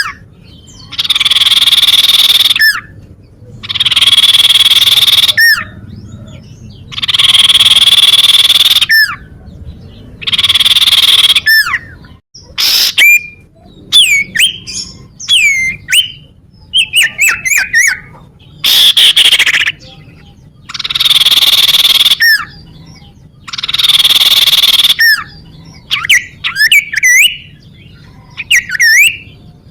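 Common iora (cipow) calling: a series of long harsh rasping notes, each lasting about two seconds and repeated every two to three seconds. Quick, sliding whistled notes come in between, in a cluster around the middle and again near the end.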